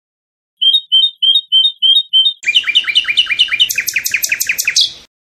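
A songbird singing one song phrase: six evenly spaced repeated notes, then, about halfway through, a fast run of down-slurred notes that climbs to higher notes near the end and stops abruptly.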